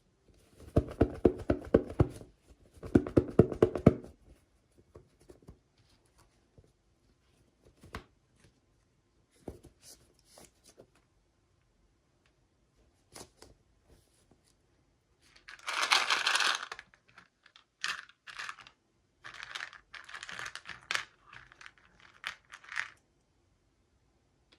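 Toy packaging being torn open by hand: two tearing bursts in the first few seconds, scattered small clicks, then plastic crinkling in several bursts in the second half.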